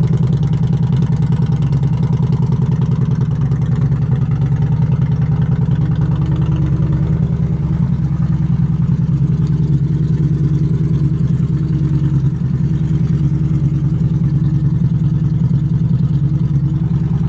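2011 Harley-Davidson Street Glide's V-twin engine idling steadily through a Screaming Eagle full exhaust, with an even, unchanging beat.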